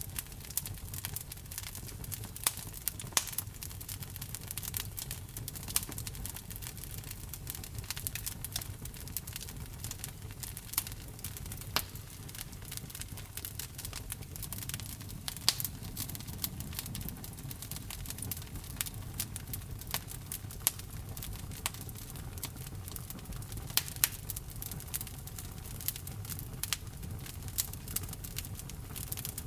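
Wood fire burning in a fireplace: irregular sharp crackles and pops of the logs over a steady low rumble of the flames.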